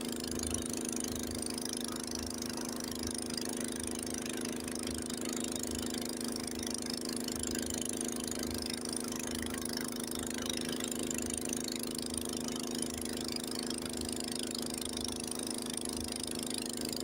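Honda snowblower engine running steadily under load while blowing snow, a constant even note with a low regular pulse beneath it and a steady hiss above.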